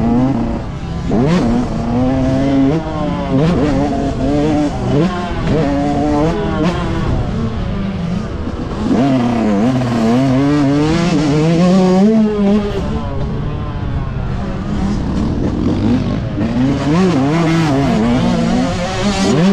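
Yamaha YZ125 two-stroke motocross bike's engine revving hard, its pitch rising and falling every second or two as the throttle is opened and closed through the corners and gears, over heavy wind buffeting on the helmet-mounted microphone.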